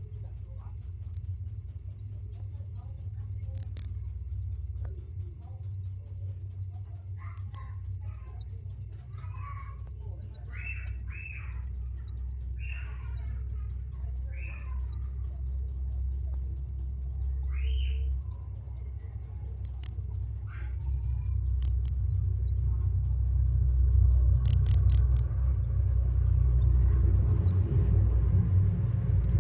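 Cricket chirping in a fast, even train of high-pitched chirps, several a second, with one brief break near the end.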